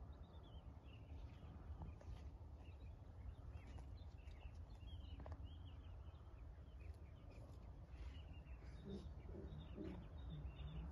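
Quiet bush ambience: faint, scattered bird chirps over a low, steady rumble.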